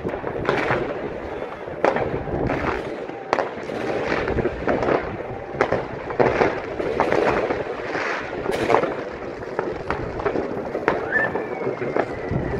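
Many fireworks going off together: a steady crackle broken by sharp bangs about once or twice a second. A faint whistle comes in near the end.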